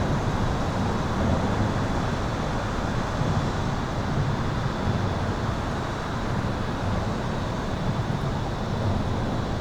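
Highway traffic heard from beneath an overpass: a continuous low rumble of passing vehicles that swells and eases slightly, with a faint steady high-pitched tone above it.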